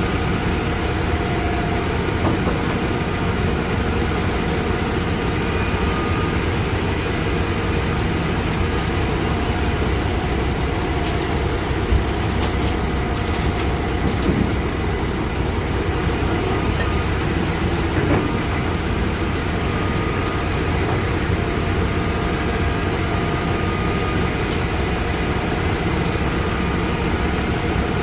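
Excavator's diesel engine running steadily under load, with a few short clunks from the bucket and machine about halfway through.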